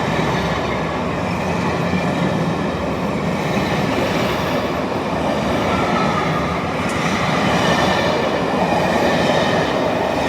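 A train running along the track: steady, loud wheel-on-rail noise with faint high whining tones over it.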